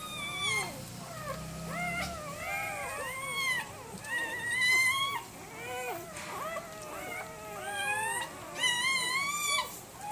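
Young German Shepherd puppies whining and squealing, several high-pitched cries overlapping and rising and falling. Louder squeals come about halfway through and again near the end.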